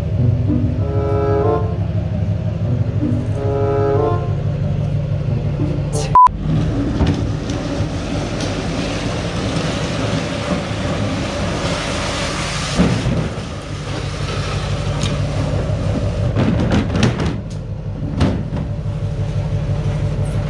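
Pickup truck driving, heard as a steady low engine and road drone. A short stepped melody plays over the first few seconds. A sharp click comes at about six seconds, then a rushing noise swells and fades again a few seconds later.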